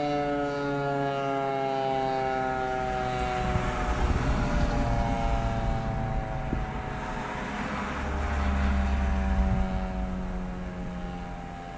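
Eclipse outdoor warning siren sounding a tone made of several notes, all sliding slowly down in pitch. Wind rumbles on the microphone underneath, heaviest about two-thirds of the way through.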